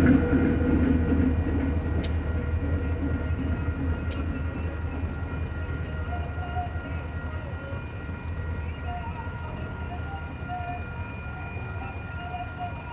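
A Union Pacific maintenance-of-way train rolls past and away, its rumble fading steadily as the rear locomotive clears the crossing. Steady ringing tones from the grade-crossing warning bell carry on under it, with a couple of sharp clicks early on.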